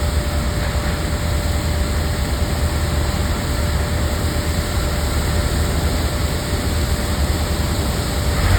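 Aircraft engines running steadily on a landing approach: a continuous deep rumble with a thin steady whine over it.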